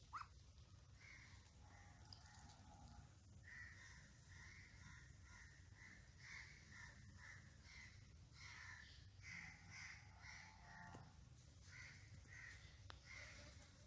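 Faint bird calls: a run of short, raspy calls, several a second, in bursts that begin a few seconds in.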